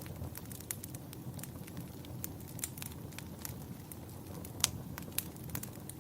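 Campfire burning with a steady low rumble and irregular crackles and snaps of burning wood, two sharper pops standing out about two-thirds of the way through.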